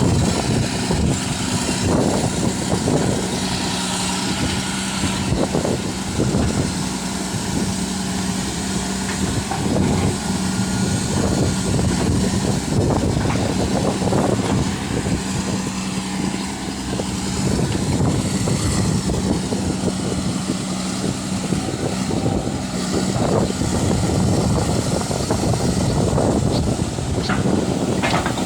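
Isuzu 6BD1 diesel engine of a Hitachi excavator running steadily, with irregular knocks and clatter throughout.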